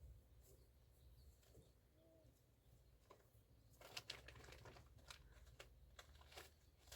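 Near silence over a low hum, with faint rustling and crackling clicks from about four seconds in.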